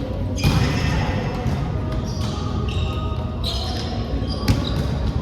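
Volleyball play in a large indoor hall: a ball struck sharply about four and a half seconds in, over echoing court noise.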